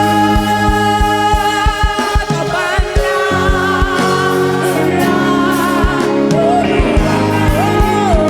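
Gospel choir singing with a live band, held chords over a steady drum beat and a lead voice with vibrato near the end.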